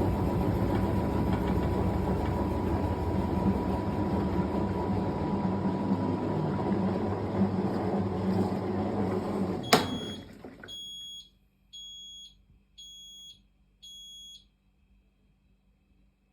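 Fisher & Paykel GW712 top-loading washing machine spinning with a steady whir and hum, which stops with a click and winds down within about a second. Then four or five short high beeps follow, about one a second: the end-of-cycle signal.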